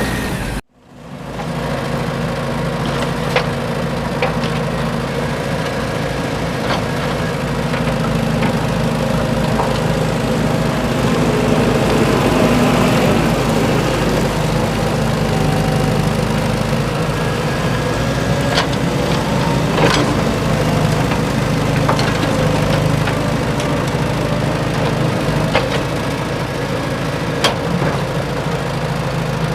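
Steady engine-like hum running evenly, with a few sharp clicks and a brief dropout about a second in.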